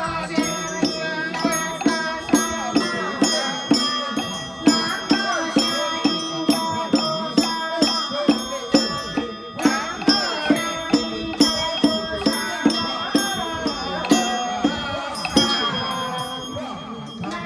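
Temple ritual music: a steady beat of percussion strikes about twice a second with bells, under a wavering, sliding melodic line of chant or a traditional instrument.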